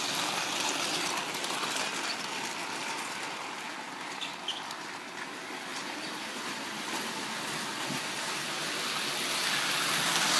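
Lionel Flying Yankee toy train running on its track, a steady whirring rumble of motor and wheels that eases off a little midway and grows louder toward the end. There is a faint squeak a little over four seconds in, from wheel sets that have not been oiled.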